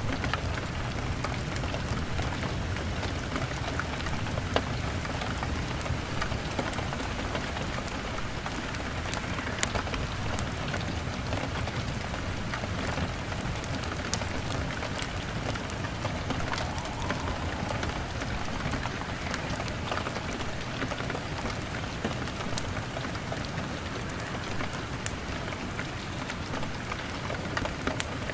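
Steady heavy rain on a window pane, an even hiss with scattered sharp ticks and pops throughout.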